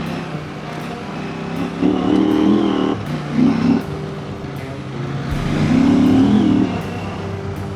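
Husqvarna Norden 901's parallel-twin engine running under way, with two louder surges of throttle: one about two seconds in and another around five to six and a half seconds.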